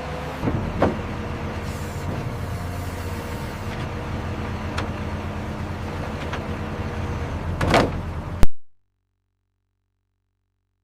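Logging machine's engine running steadily, with a few sharp cracks of wood, the loudest near the end. The sound cuts off abruptly about eight seconds in.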